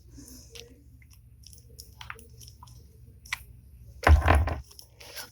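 Plastic action figure being handled and pressed together: scattered small clicks and creaks of hard plastic parts. About four seconds in, a louder burst of handling noise with a thump.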